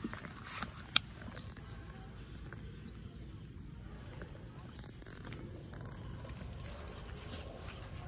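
Outdoor ambience with a small bird chirping repeatedly in short high notes, over a steady low background; a single sharp click about a second in is the loudest sound.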